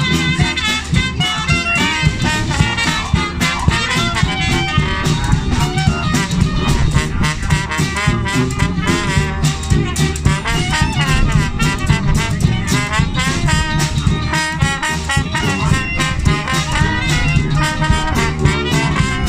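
Trad jazz band playing a swing number, brass instruments carrying the tune over a steady beat.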